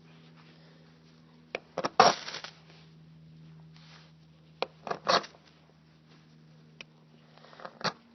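Small blade of a Buck knife scraped hard down a ferrocerium (flint) rod in short strikes to throw sparks for lighting tinder. There are several scrapes: the longest and loudest about two seconds in, a quick pair around five seconds, and more near the end.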